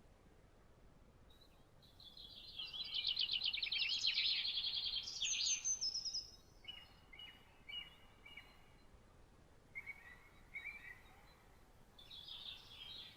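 Songbirds singing over a faint steady hiss: a loud, rapid trilled song phrase a few seconds in, then softer short chirps and another brief phrase near the end.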